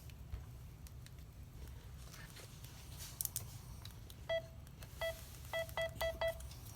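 Six short electronic beeps, all at the same pitch: two spaced apart, then four in quick succession. A few faint clicks come just before them.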